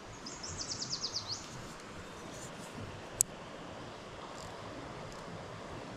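A songbird sings a quick trill of about eight falling high notes in the first second and a half, over steady outdoor background hiss. A single sharp click about three seconds in is the loudest sound.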